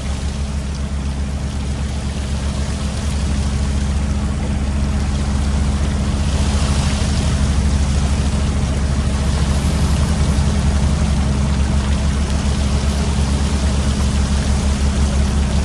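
Fishing boat's diesel engine running steadily with a low, even hum while the set-net is hauled, getting a little louder about three seconds in, with a rush of splashing water about six seconds in.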